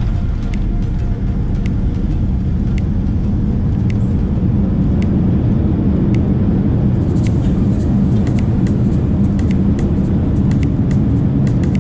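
Steady low rumble of a Boeing 787 Dreamliner's cabin noise, with a deep hum, a slight swell about four seconds in and scattered faint clicks and rattles.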